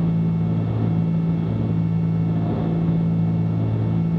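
Cessna 310Q's twin piston engines and propellers droning steadily in the cockpit on final approach, a low, even hum with two pitches.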